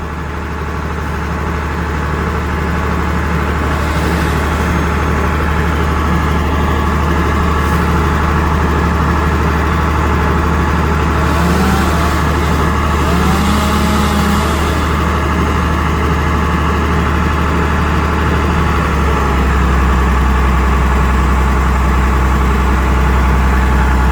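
Bucket truck's engine running steadily with a loud, low hum, its note shifting slightly a few seconds before the end.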